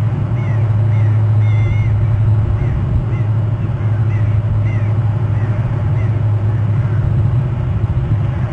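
A steady low rumble, with a bird's short high chirps repeated about twice a second and one longer, fuller call about one and a half seconds in.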